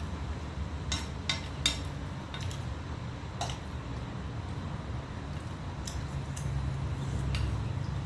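Cutlery clinking against dishes in a few short, separate taps, over a steady low rumble.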